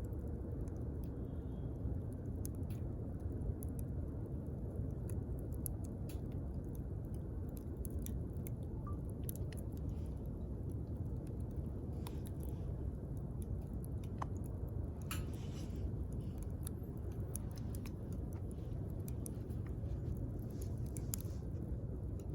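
Wood campfire crackling: irregular sharp pops and snaps over a steady low rumble, with a couple of brief hissing flares.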